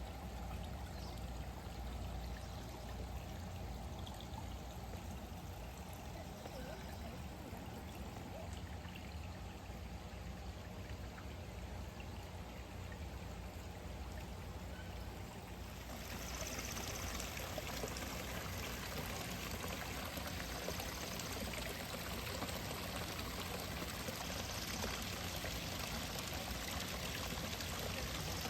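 Steady running, splashing water, turning brighter and a little louder a little past halfway through.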